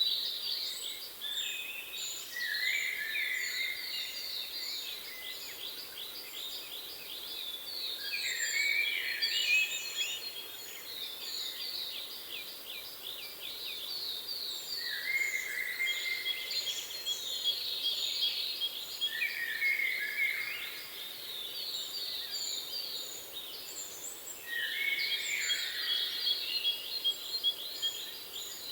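Several songbirds singing over each other: fast trills, short repeated high chirps and warbled phrases, over a faint steady background noise.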